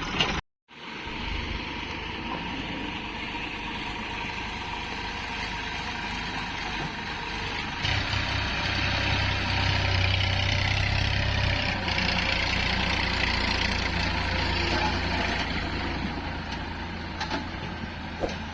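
Heavy diesel engine running steadily, its low drone growing louder about eight seconds in and easing back a few seconds later.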